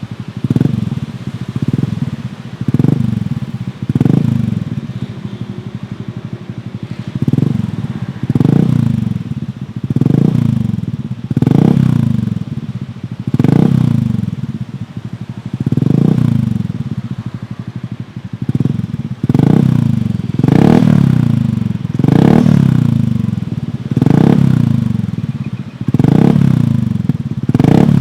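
Honda Scoopy's single-cylinder engine breathing through a Kenochi Racing Hunter H1 aftermarket exhaust, revved from idle in repeated short throttle blips, about one every second or so. Each blip rises quickly in pitch and falls back.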